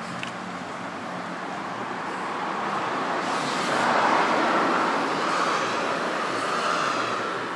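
Yamaha BW'S 100 scooter's two-stroke engine, fitted with a stainless muffler, running; its sound swells to a peak about four seconds in and then eases off.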